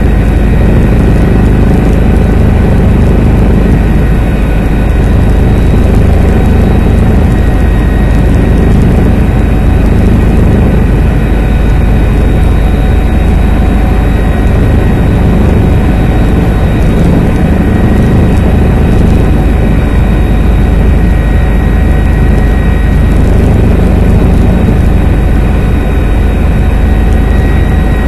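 Helicopter in flight: a loud, steady drone of rotor and engine with a constant high whine above it.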